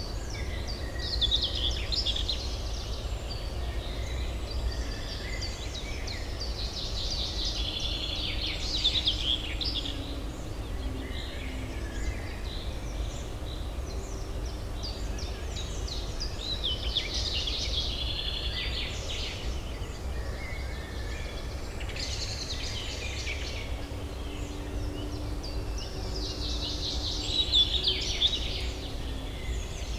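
Songbirds singing in bursts of quick, high chattering song every few seconds, over a steady low urban hum.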